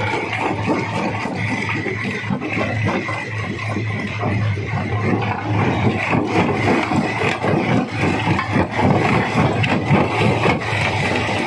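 Rock crusher running under load, a steady machine drone under continuous, irregular clatter and grinding of stone being broken.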